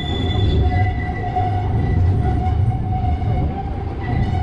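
Strong wind rumbling on the microphone, with a steady mechanical whine held throughout.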